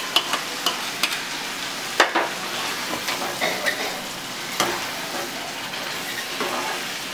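Chicken pieces in tomato-onion masala sizzling in a kadai of hot oil while a spatula stirs them, with a few sharp clicks and knocks, the clearest about two seconds in and again near five seconds.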